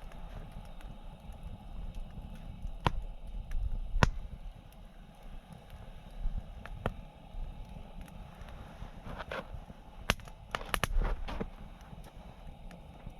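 Wood campfire burning with a low steady rumble and occasional sharp pops and crackles. The loudest pop comes about four seconds in, with a quick cluster of pops near the end.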